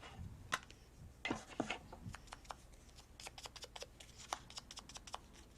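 Faint paper handling on a craft table: soft rustles and scattered light taps and clicks as paper pieces and supplies are moved about.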